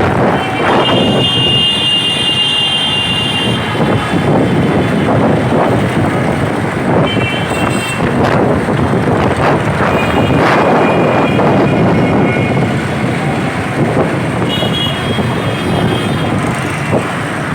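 Gusty storm wind buffeting the microphone over road traffic noise. Vehicle horns sound three times: about a second in for a couple of seconds, again around the middle, and near the end.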